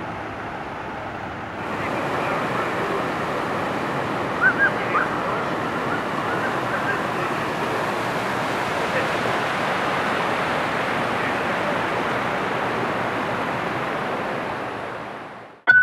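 Steady rushing of river water over a waterfall. It gets louder after about a second and a half, a few brief high sounds come about four and a half seconds in, and it fades out near the end.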